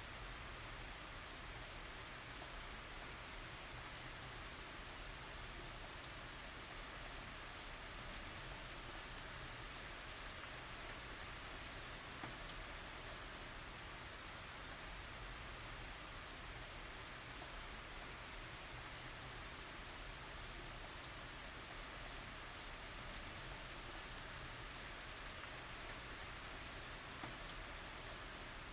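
Steady tropical rain falling, an even hiss with fine drop ticks, no thunder.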